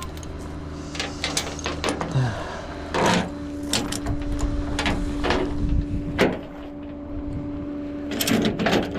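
Vehicle engine running with a steady hum, under a series of clicks and clunks, with louder knocks about three seconds in and again about six seconds in.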